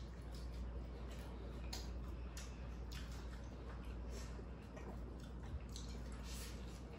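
Eating sounds close to the microphone: scattered wet clicks and smacks of chewing and slurping noodles and fried food, over a steady low hum.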